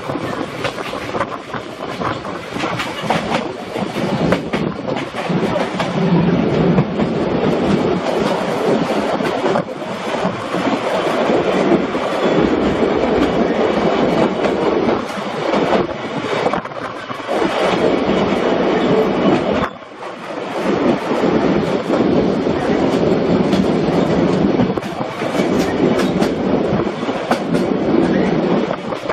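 Watarase Keikoku Railway trolley train running along the line, heard from on board: a steady rolling rumble with the wheels clicking over the rail joints, briefly dropping in loudness about two-thirds of the way through.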